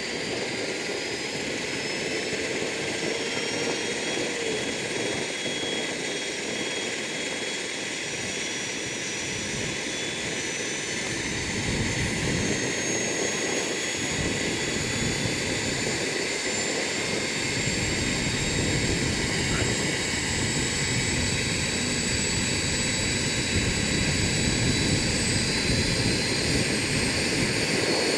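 Radio-controlled model helicopter running, with a high thin whine that climbs slowly in pitch while the sound grows gradually louder.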